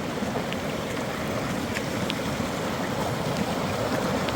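Heavy rain falling steadily, an even rushing hiss, with a few faint ticks.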